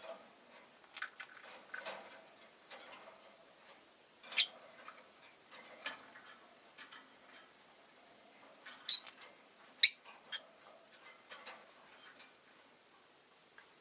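Rosy-faced lovebirds making scattered short chirps and clicks, with two loud sharp chirps close together about two-thirds of the way through.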